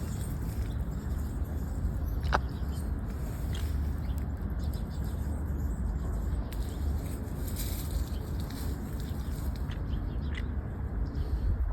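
Wind buffeting the microphone in a steady low rumble, with a few faint, short bird chirps above it, one a little clearer about two seconds in.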